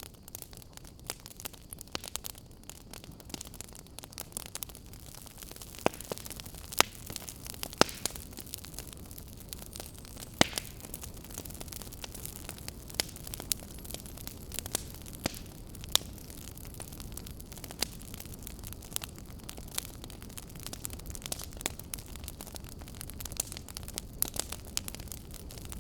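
Fire crackling: irregular sharp pops and snaps over a steady low rumble and hiss, with a few louder pops around the middle.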